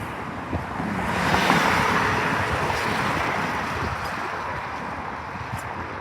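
A vehicle passing close by: a rush of road noise swells about a second in and fades away over the next few seconds.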